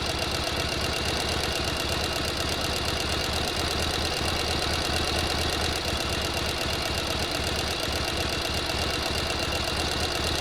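Sewing machine running steadily at speed, its mechanism clattering in a fast, even rhythm.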